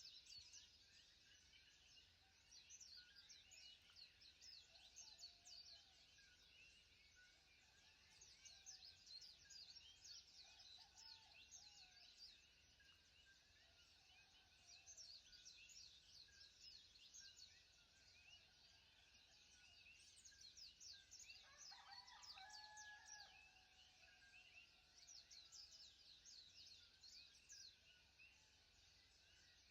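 Faint chirping of many small birds, with one louder call about three quarters of the way through.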